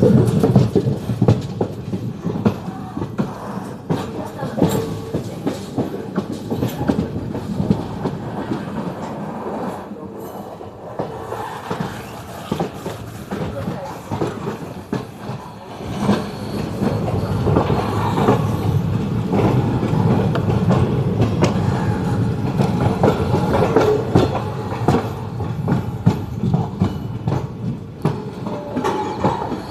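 Passenger train running, with a steady rumble and the clickety-clack of its wheels over the rail joints. It grows louder about halfway through.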